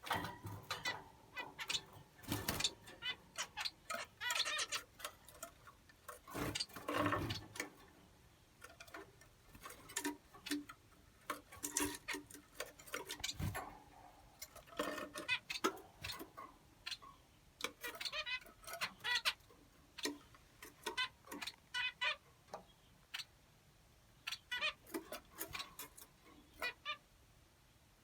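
Small finches calling: many short, sharp chirps and ticks in quick irregular clusters, now several together, now single.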